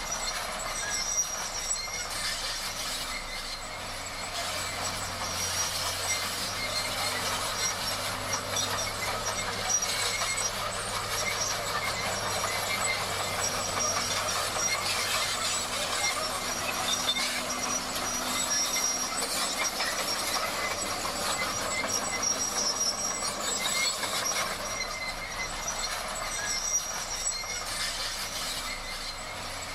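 Komatsu D58 crawler bulldozer working, its steel tracks giving a steady metallic squeal and clatter over the low hum of the engine.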